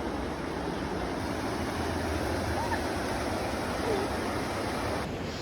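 Ocean surf washing on the shore, a steady rush of waves, with a couple of faint, brief voices in the background.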